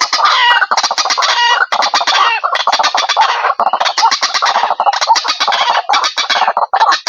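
White-breasted waterhen calling loudly: a rapid, harsh, croaking run of repeated notes, given in short phrases of under a second with brief breaks between them.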